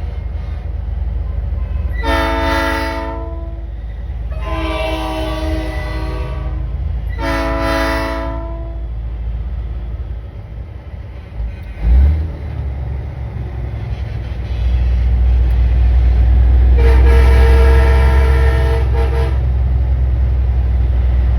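Nathan Airchime P3 train horn on a big rig sounding its chord in three blasts, the second one longest, then one more blast near the end. Under it the truck's diesel engine runs steadily and grows louder past the middle, with one short low thump just before.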